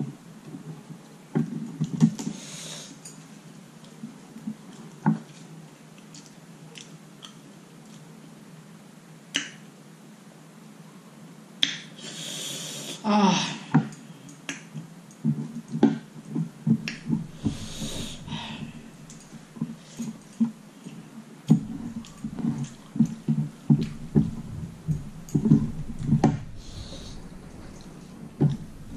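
Close-up eating sounds of someone eating rice and curry by hand: chewing with repeated wet clicks and lip smacks, busier in the second half, and a short noisy breath about twelve seconds in.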